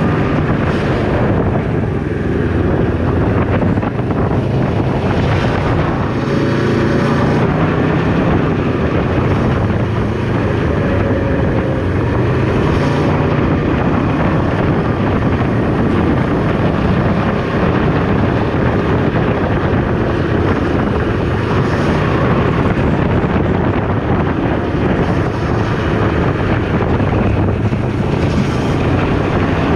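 Wind buffeting the microphone while riding a Can-Am Ryker 600 three-wheeled motorcycle at road speed, with its engine running underneath as a steady low drone.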